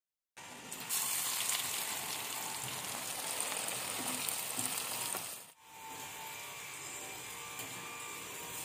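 Hot oil sizzling as food deep-fries in a metal kadai. It starts abruptly just after the opening, is loudest over the next few seconds, drops out for a moment about five and a half seconds in, then goes on steadily a little quieter.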